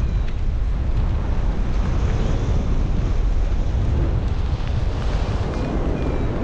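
Airflow buffeting the microphone in flight: a steady, loud wind rush, heaviest in the low rumble.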